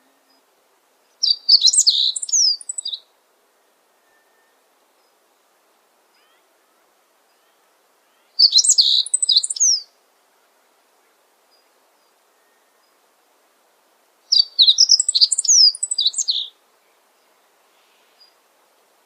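A songbird singing three short phrases of quick, high notes, each lasting a second and a half to two seconds, about six seconds apart.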